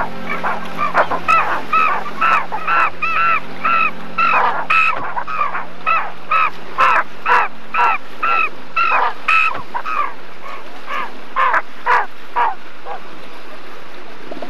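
Birds calling: a run of short harsh cries, two or three a second, over a low steady hum. The calls thin out after about ten seconds.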